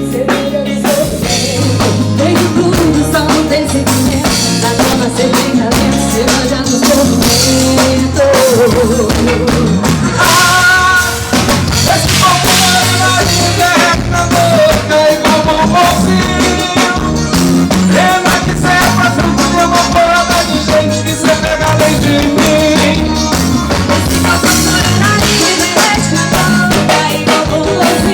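A live band plays a song during a soundcheck, with a drum kit keeping a steady beat under bass and melodic lines.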